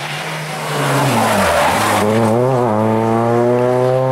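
Rally car slowing for a corner, its engine revs falling while the tyres skid, then accelerating out with the revs climbing steadily from about two seconds in.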